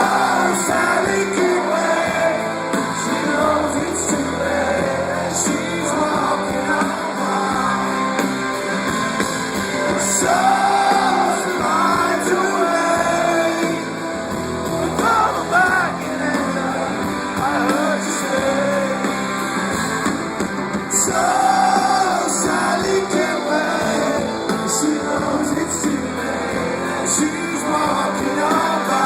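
Live rock band playing with a singer, recorded from the audience: guitars and drums under sung vocal lines at a steady loud level.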